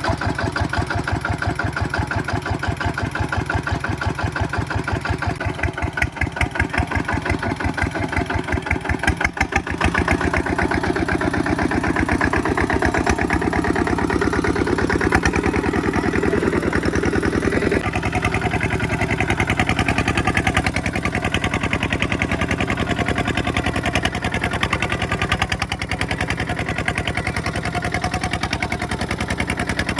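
Kubota single-cylinder diesel engine running, with a steady beat of firing strokes. The pace and tone change about ten seconds in and again around eighteen seconds, as the engine is throttled.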